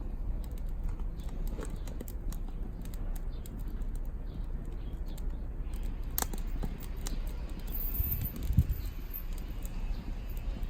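Split firewood burning, crackling with many irregular sharp pops over a low steady rumble, with one louder pop late on.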